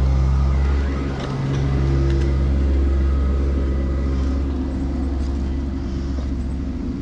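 Engine of a piece of heavy earthmoving equipment running steadily, a low hum that dips briefly about a second in.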